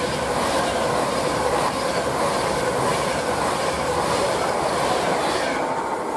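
Avanti West Coast Class 390 Pendolino electric train passing: a steady rush of wheel-on-rail and air noise. The highest part of the noise fades near the end as the last coach goes by.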